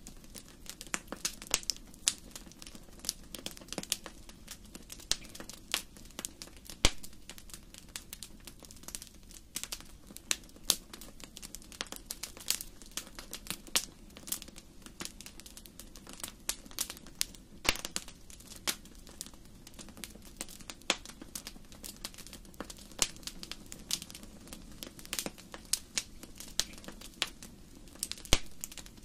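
Wood fire burning in a large fireplace: irregular sharp crackles and pops, some loud, over a low steady rush of flame.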